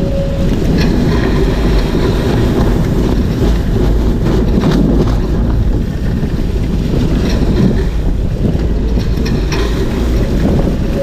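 Nacra 500 MK2 catamaran sailing fast: a loud, steady rush of wind on the microphone and water along the hulls. The high-speed buzzing tone is heard only at the very start.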